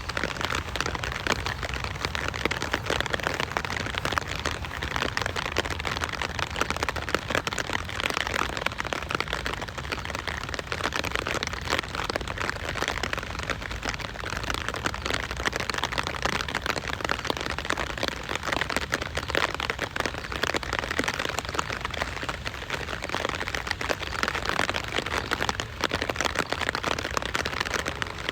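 Steady rain falling, a dense patter of many drops hitting surfaces.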